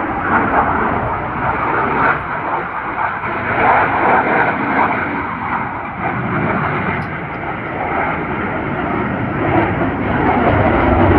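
Loud engine noise from an airplane flying at an air show, a rushing sound that swells and eases, strongest about four seconds in and again near the end.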